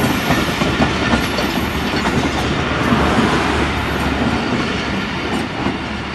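Pakistan Railways passenger coaches rolling past close by, with a steady noise of wheels on rail and repeated short wheel clicks over the rail joints. The noise eases slightly near the end as the last coach goes by.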